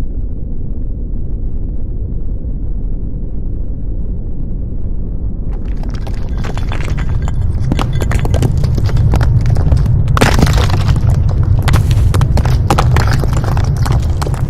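Earthquake shaking: a steady deep rumble, then about six seconds in a burst of rattling, clattering and breaking as things shake and fall, loudest around ten to thirteen seconds in.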